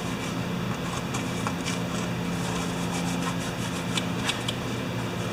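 Small scattered clicks and rubbing from handling the oil container and funnel, over a steady low hum. A cluster of clicks comes near the end.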